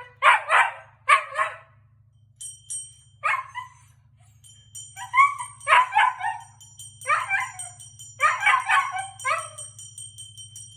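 Siberian husky howling in a series of short, broken calls, set off by a bell. The bell starts ringing with quick high tinkling strokes about two seconds in and keeps going while the dog answers it. A steady low hum runs underneath.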